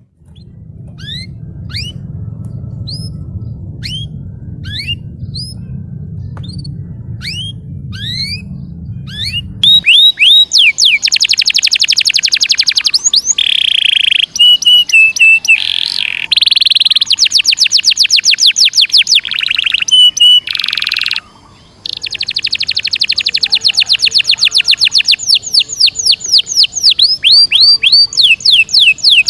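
Domestic canary singing. For about the first ten seconds it gives a few separate rising chirps over a low hum. After that come loud, fast rolling trills with short pauses, and a brief break about twenty seconds in.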